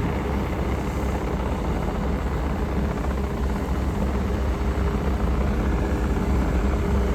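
An engine running steadily, a constant low drone with a faint steady hum above it.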